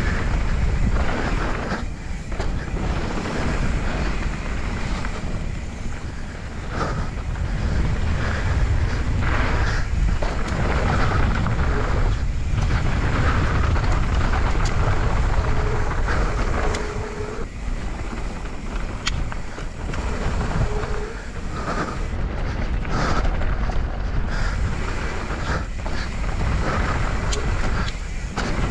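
Wind rushing over the camera's microphone and knobby tyres rolling on a dirt trail during a fast mountain-bike descent, swelling and easing, with short clicks and rattles from the bike over bumps.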